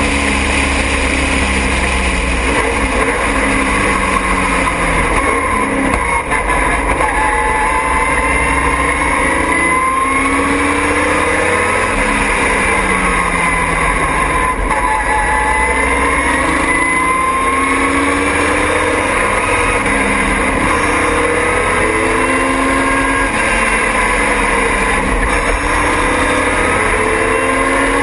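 Triumph TR6 race car's straight-six engine running hard under racing load, its pitch falling and rising several times as the car slows and accelerates again.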